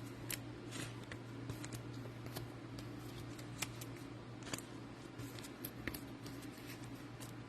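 Trading cards and packs being handled: scattered light clicks and rustles over a steady low hum.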